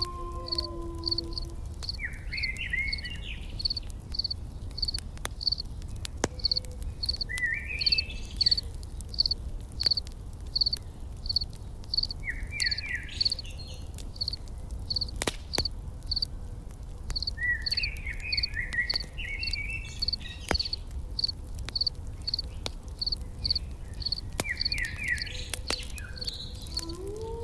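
An insect chirping steadily, about three pulses a second, with short bird song phrases every few seconds and scattered sharp crackles of a campfire over a low steady rumble.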